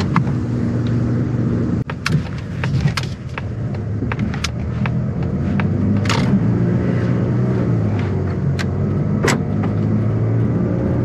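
Mazda CX-30's engine running as the car moves off, heard from inside the cabin, its pitch shifting a little. A few sharp clicks and knocks from inside the car sound over it.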